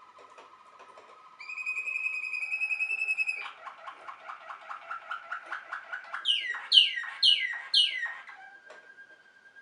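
Waterslager (Malinois) canary singing. Its song runs through soft low rolls, then a clear held note of about two seconds, a fast run of notes at about eight a second, and four loud falling whistles.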